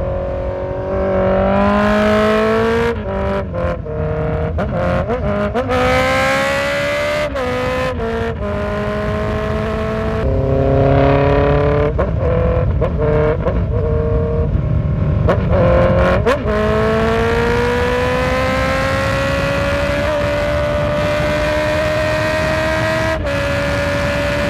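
Honda CB650F's 649 cc inline-four engine on a ride: the revs climb and drop back several times with short breaks at the gear changes, then settle into a steady, slowly rising note about two-thirds of the way through.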